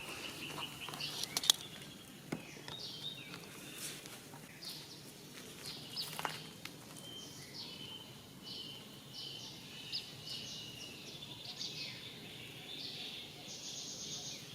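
Outdoor natural ambience full of short, high chirps and calls, with a thin steady high trill through the middle and a few sharp clicks or snaps, loudest about a second and a half in.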